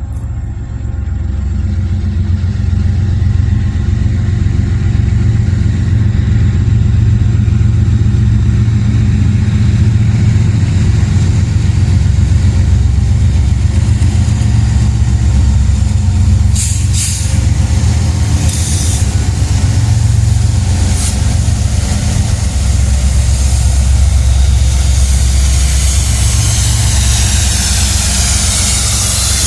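Diesel locomotives of a freight train passing close, their engines running with a deep, steady rumble that builds in the first couple of seconds. Wheel and rail hiss grows toward the end.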